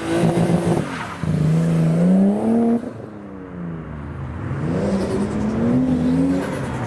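Nissan Skyline R34's engine revving as the car pulls away: the revs climb, drop sharply about three seconds in, then climb again.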